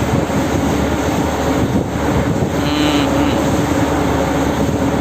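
A ship's engines running with a loud, steady drone: a low hum under a constant rush of noise.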